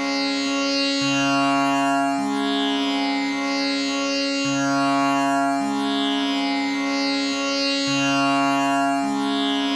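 Tanpura drone tuned to C sharp. Its strings are plucked one after another in a repeating cycle, about once a second, and each note rings on into the next, giving a continuous drone rich in overtones.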